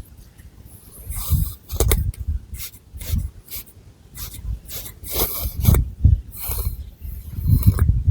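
Long fingernails scratching and raking through thick long hair on the scalp, close to the microphone: a run of irregular rasping strokes, each with a soft low thud.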